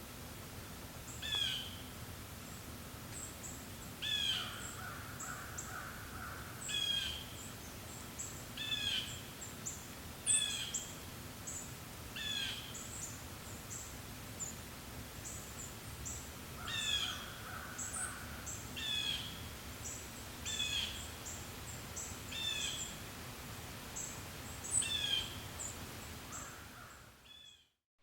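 Forest birds singing, one repeating a short descending phrase about every two seconds among many high, quick chirps, over a steady soft hiss of breeze. The sound drops out abruptly near the end.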